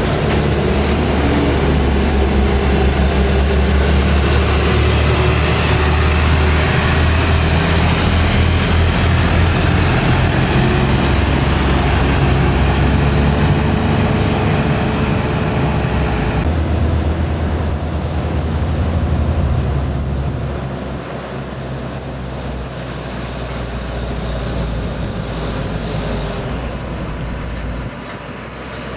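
Heavy truck's diesel engine running under load close by: a steady low drone over loud engine and road noise. The sound changes abruptly about two-thirds of the way through and is quieter over the last third.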